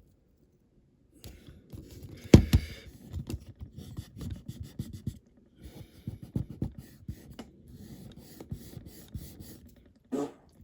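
Scratching and scraping with many light, irregular clicks, from hands working on a small model at the bench, with one sharp knock a little over two seconds in. It starts about a second in, after a moment of silence.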